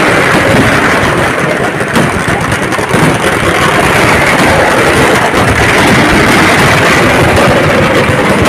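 A dense chain of firecracker explosions merging into a continuous loud roar, with no single bang standing out.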